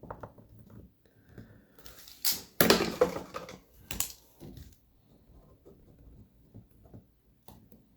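Handling noise at a desk: scattered small taps and clicks, with a louder crinkling, rustling burst of about two seconds near the middle.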